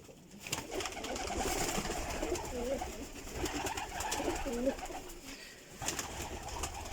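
Domestic pigeons cooing, several overlapping coos that thin out about five seconds in.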